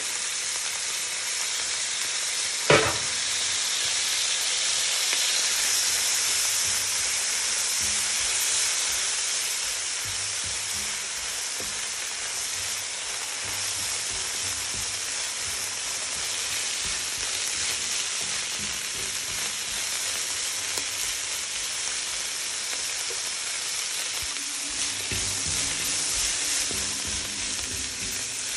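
Broccoli and cabbage stir-frying in a hot nonstick pan, a steady sizzle throughout. A single sharp knock comes about three seconds in. Near the end, the vegetables are turned over with tongs.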